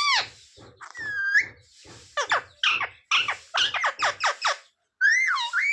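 A pet parrot calling: short, high, shrill notes in quick succession, including a fast run of falling notes in the middle and rising-and-falling notes near the start and end.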